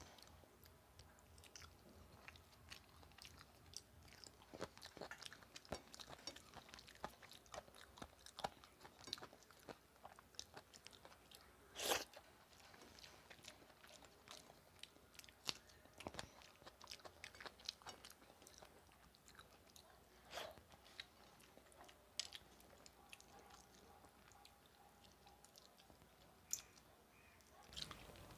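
Close-up eating sounds: a person chewing rice and curry by mouth, soft wet smacks and clicks coming irregularly, with one louder sharp smack about twelve seconds in.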